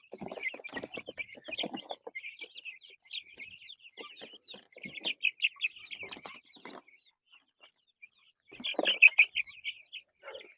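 A flock of Cornish Cross meat chicks peeping continuously in short high cheeps, with bursts of rustling and knocks near the start, about six seconds in and about nine seconds in.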